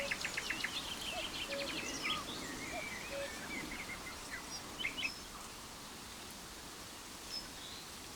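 Several songbirds chirping and trilling over a steady hiss of outdoor ambience, the calls dense for the first few seconds and thinning out after about five seconds, leaving mostly the even hiss.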